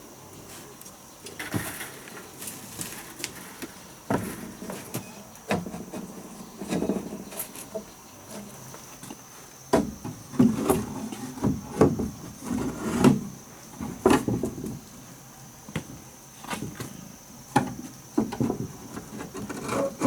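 Irregular knocks and scraping of wood being worked by hand, coming in clusters and busier in the second half.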